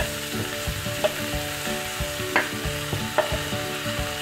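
Onions frying in mustard oil in an aluminium pressure cooker, a steady sizzle, with a few sharp clicks and knocks as sliced potatoes are tipped into the pot from a wooden board.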